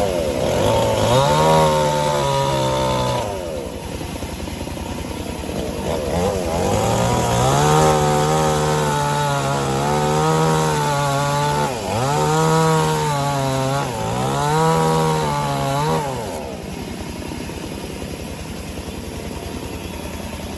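A petrol-engined saw running hard, cutting wood. It revs up about a second in, holds a steady high pitch with two brief dips under load in the middle, and drops to a lower, quieter running sound near the end.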